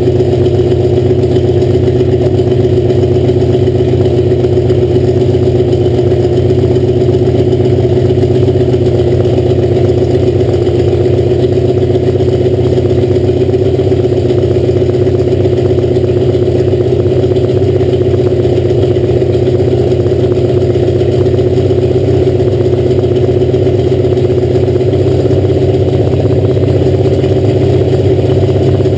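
Rebuilt Alfa Romeo Montreal V8 race engine running steadily on its first break-in run.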